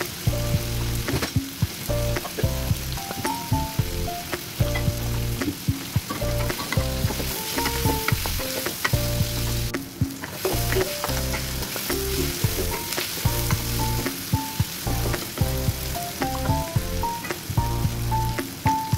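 Chopped onions and tomatoes sizzling in oil in a non-stick wok, with the clicks and scrapes of a wooden spatula stirring them. Background music with a bass line plays underneath.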